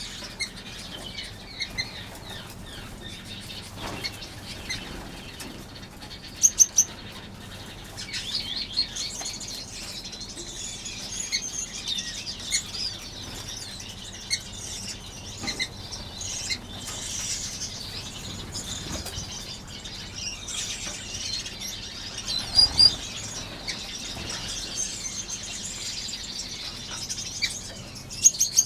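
Many small aviary finches chirping continuously in high, thin calls, with some wing flutter as birds move about. A few louder sharp calls stand out, twice in quick pairs.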